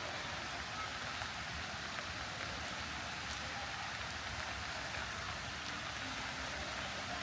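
Steady hiss of light rain falling, with a few faint ticks of drops.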